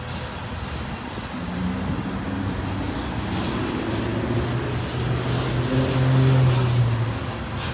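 Diesel locomotive engines of a loaded coal train running under load, a deep steady drone that builds from about a second and a half in, is loudest around six seconds in, and eases near the end.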